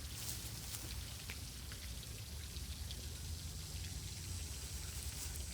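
Wind on the microphone outdoors: a steady low rumble with light crackling ticks.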